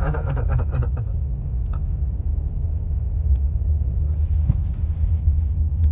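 Steady low rumble of road and engine noise heard from inside a moving car's cabin, with a few faint ticks.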